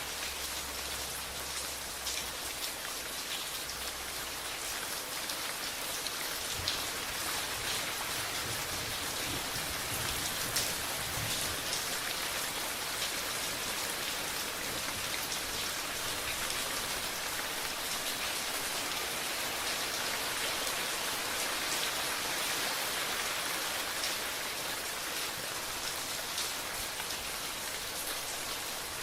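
Steady rain falling on a surface, with scattered louder individual drops ticking through the constant patter.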